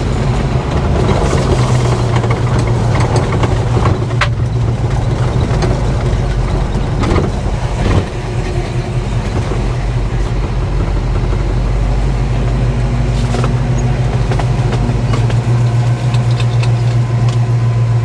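The car's Pontiac 400 V8, breathing through an aftermarket exhaust, runs steadily while the car drives. Two brief clicks come about four and eight seconds in.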